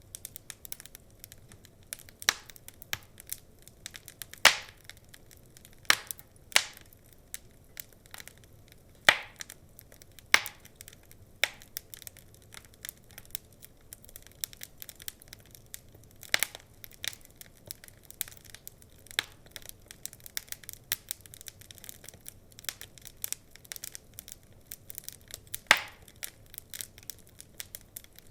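Wood fire crackling: irregular snaps and pops, with half a dozen louder cracks standing out among many small ones.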